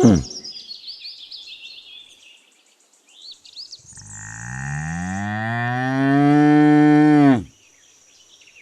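Bull mooing: the tail of one low call right at the start, then, about four seconds in, a single long call of about three and a half seconds that rises in pitch, holds, and stops abruptly. Small birds chirp faintly in the background.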